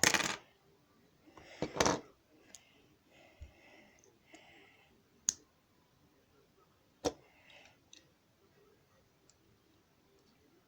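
Lego plastic pieces being handled: a loud clatter at the start and again about two seconds in, then a few scattered sharp clicks.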